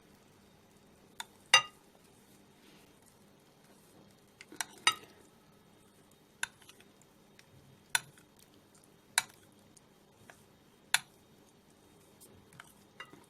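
Dishes and utensils handled in a kitchen: a series of sharp, separate clinks and knocks at irregular intervals, about eight in all, the loudest about one and a half seconds in.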